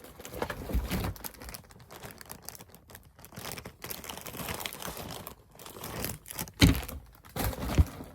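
A snack's plastic wrapper crinkling and rustling as it is handled, with a few sharper knocks near the end.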